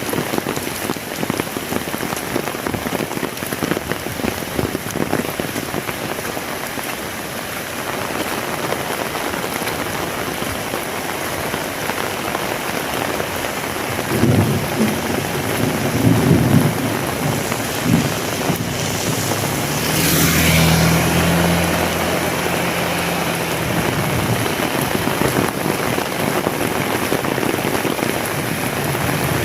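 Heavy rain falling steadily. About halfway through, a few seconds of low rumbling come and go, then a low hum with a hiss swells and fades over about three seconds.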